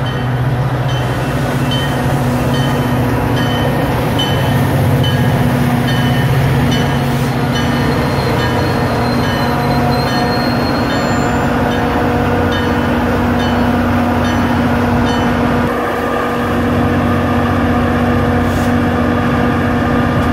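Metra commuter train arriving at a station: the diesel locomotive's engine hums steadily under the rumble of the train on the rails. A short high ding repeats about once a second for most of the time, and a faint high squeal comes in about halfway.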